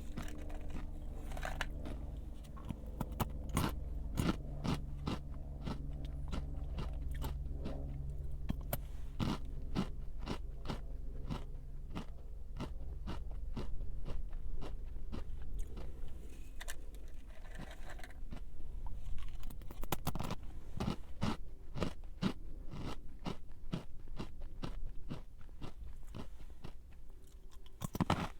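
A person biting and chewing a crunchy snack, with many sharp crunches in quick, irregular succession.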